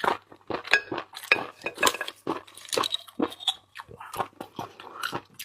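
Close-up eating of seafood: rapid, irregular crunching and wet chewing, with occasional small clinks.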